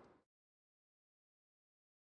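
Digital silence. The last of the car's road and rain noise fades out within the first quarter second.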